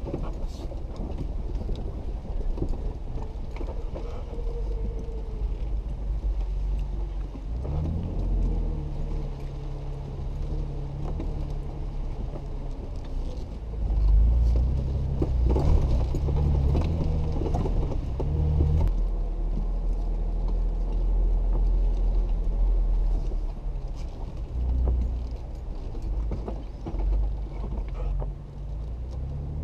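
Jeep engine running as the vehicle crawls over a rough dirt trail, heard from inside the cab, with knocks and rattles from the bumps. The engine note climbs about eight seconds in, is loudest and strongest from about fourteen to nineteen seconds in, then drops back.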